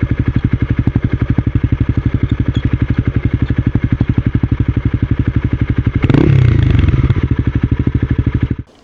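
Honda CB250R single-cylinder motorcycle engine idling with an even, rapid chug. About six seconds in it swells louder for a moment, then it cuts off abruptly near the end as the engine is switched off.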